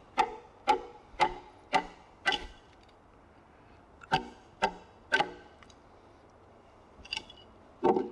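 Mallet striking a chisel, chopping out the waste of a deep mortise in a timber. About ten sharp blows, each with a short ring: five at roughly two a second, a pause, three more, then two after another pause.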